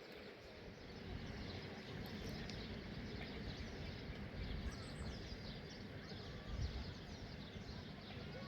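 Many small birds chirping continuously over a steady background hiss, with many short, quick falling chirps.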